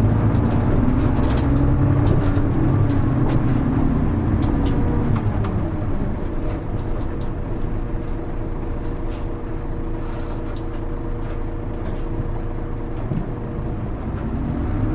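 Diesel engine of a Hino Rainbow HR (KL-HR1JNEE) city bus heard from inside the cabin while under way: it pulls strongly at first, its note falls about five seconds in as the driver eases off, and the bus runs on more quietly with a steady whine before the engine picks up again near the end. Light rattles and clicks from the body sound throughout.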